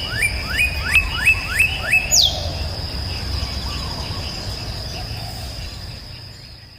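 A bird chirping: a quick run of short rising calls, about three a second, over the first two seconds, then one sharp falling note. A steady high tone and a low rumble run underneath, and everything fades out near the end.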